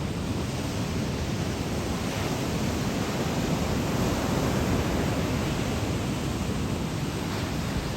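Ocean waves breaking on a sandy beach in typhoon swell: a steady wash of surf with some wind, swelling a little louder around the middle.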